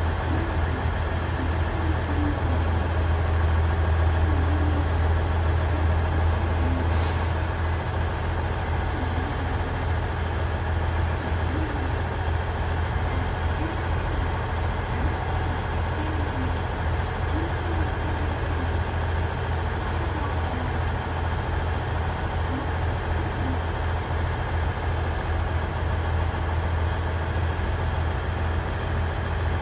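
KiHa 110 series diesel railcar's engine idling steadily with a deep, unchanging hum. There is a faint short click about seven seconds in.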